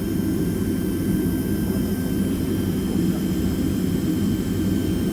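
Steady rumble of a Boeing 767-300ER's jet engines at low power, heard from inside the cabin, with a faint high steady whine over it.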